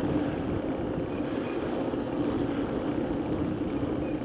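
Steady rushing noise of a bicycle ride under way, wind blowing on the microphone.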